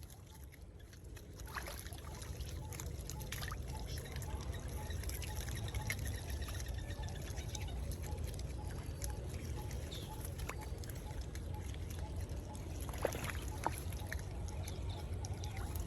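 Water trickling and splashing, with scattered small clicks and splashes; it grows louder about a second and a half in.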